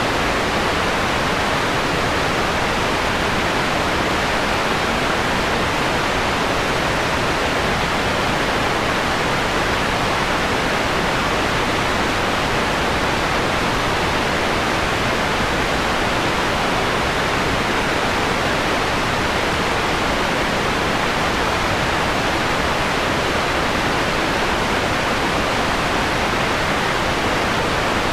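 Steady, electronically generated white noise with its top end softened, partway through a slow dimming from bright to mellow: an even, unbroken hiss.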